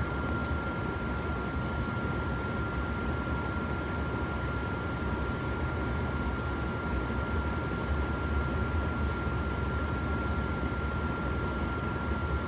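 Intermodal freight train rolling past, a steady low rumble with no letup, and a faint steady high whine throughout.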